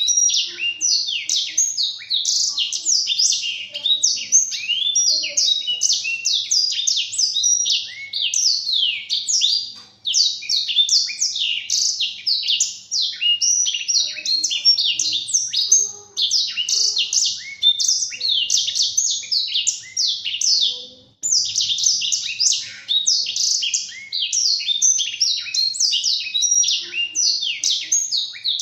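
Blackthroat (black-throated canary) singing a long, fast, twittering song of rapid rising and falling notes, broken only by a few brief pauses.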